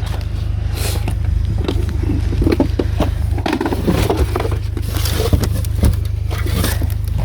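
Car running, a steady low rumble, with scattered light knocks and rattles.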